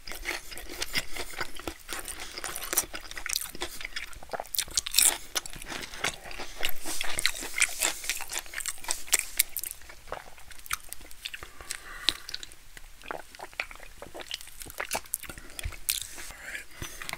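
Close-up chewing of a crunchy breaded fried pickle: a steady run of crisp crunches and small crackles from the mouth, thinning out toward the end.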